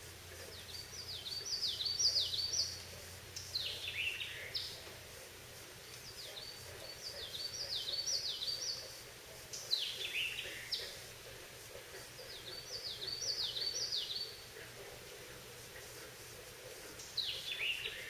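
A common yellowthroat singing its rolling 'witchety-witchety-witchety' song three times, each a quick run of repeated high notes that fall in pitch. Each song is followed by a shorter phrase that slides down in pitch.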